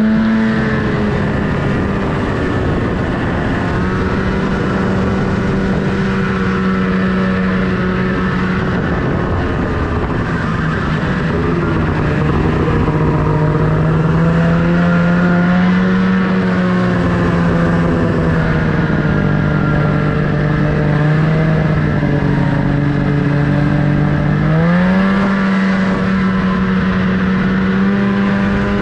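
Snowmobile engine running under throttle, its pitch held steady for long stretches, dipping a little about twelve seconds in and climbing again near the end.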